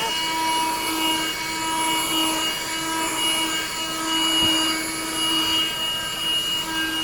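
Black & Decker 12 V handheld car vacuum cleaner running steadily: a high motor whine over rushing air, with a light knock about four and a half seconds in.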